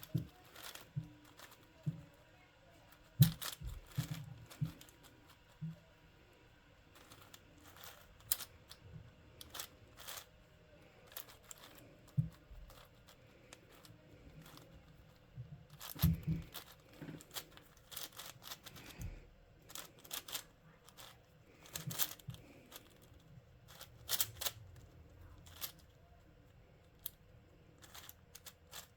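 Plastic twisty puzzle being turned by hand: irregular quick clicks and clacks of its layers snapping round, in bursts with short pauses between.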